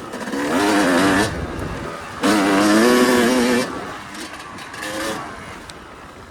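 Yamaha YZ250 single-cylinder two-stroke dirt bike engine revving hard twice under throttle, the pitch climbing on the first pull, dropping back off-throttle between them, with a shorter, lighter burst of throttle near the end.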